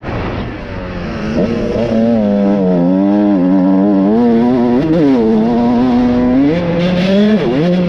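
Motorcycle engine running hard at high revs, its note holding steady but wavering. It dips and climbs again with throttle changes about 5 and 7.5 seconds in.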